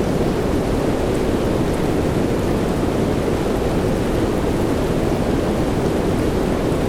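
Steady soft rain sound, an even, unbroken hiss that is deep and full in the low-mids, with no separate drops or thunderclaps standing out.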